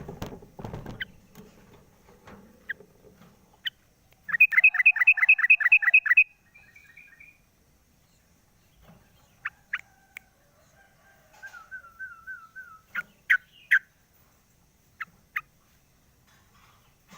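Yellow-vented bulbul (trucukan) singing: a loud, rapid run of about ten bubbly notes about four seconds in, lasting some two seconds, followed by scattered short sharp chirps and a quieter rippling trill. A brief low rustle at the very start.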